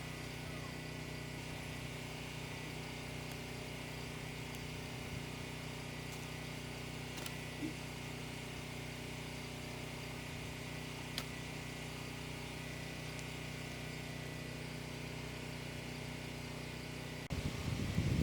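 An engine running steadily with an even, unchanging hum. A louder, low rumble breaks in near the end.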